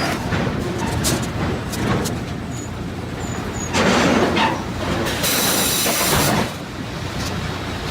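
Sawmill log-handling machinery on the log deck and infeed line running: a continuous mechanical rumble with scattered clanks and faint metal squeals. There is a louder burst of clattering just under four seconds in, then a hiss-like rush lasting about a second, which cuts off about six seconds in.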